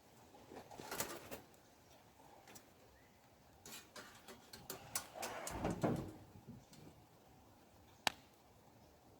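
Scattered sharp clicks and knocks, with a busier cluster of knocks and rustling about four to six seconds in and one sharp crack a little after eight seconds.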